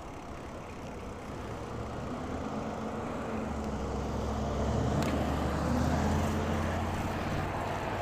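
A car driving past: its engine hum and tyre noise swell from about two seconds in, are loudest around the middle, then ease off.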